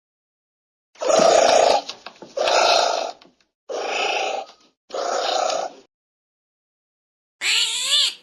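An animal gives four rough, growling calls about a second apart. Near the end a cat begins meowing.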